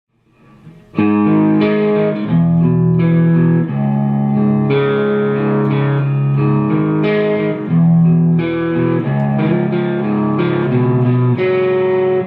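Electric guitar through a distortion effect, strumming a riff of sustained chords that change every second or so, starting about a second in. The guitar is tuned down to drop D-flat.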